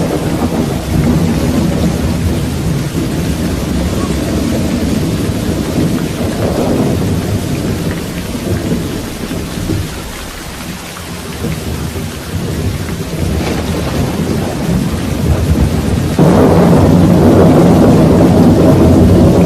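Thunderstorm: steady rain under rolling thunder, easing briefly about halfway through, then a sudden loud peal of thunder rumbling on near the end.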